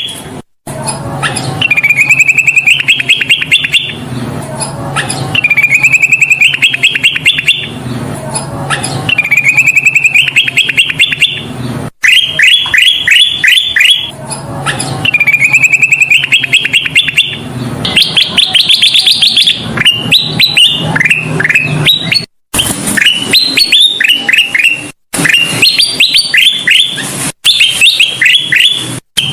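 Kutilang emas bulbul singing loud, repeated phrases of rapid notes, each run climbing in pitch and lasting a second or two, with a few faster choppy bursts in the second half. A low steady hum sits underneath, and the song breaks off abruptly several times.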